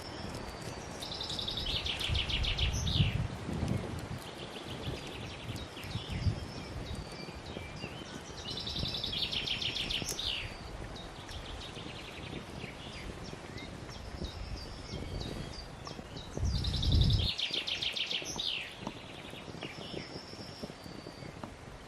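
A songbird singing a short, fast trilled phrase three times, about eight seconds apart, with softer high chirps between. Low rumbles come in under the first and third phrases, the loudest with the third.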